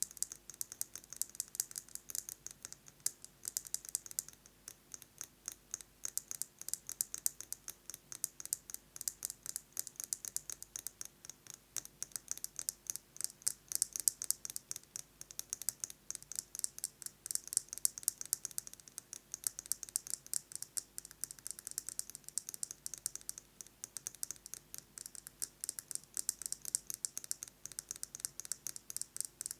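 Fast fingernail tapping on a metal lipstick case: a rapid, continuous patter of light clicks.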